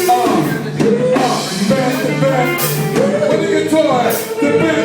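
Live band playing a rock groove: drum kit with cymbal crashes about two and a half and four seconds in, electric bass, guitar and a sung vocal line.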